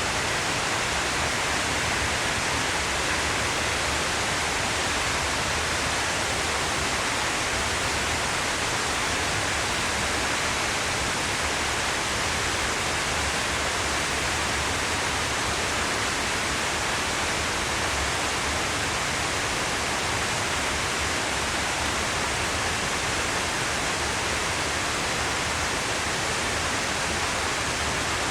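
Steady rushing of a large waterfall, an even, unbroken wash of falling water with no change in level.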